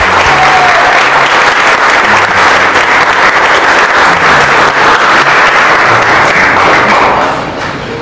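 A crowd clapping and applauding, dying down about seven seconds in.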